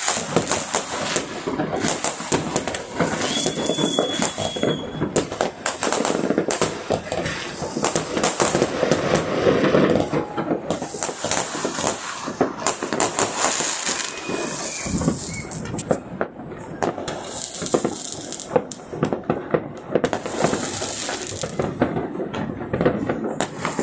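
Many fireworks and firecrackers going off together, a dense, irregular barrage of cracks and bangs over continuous crackling.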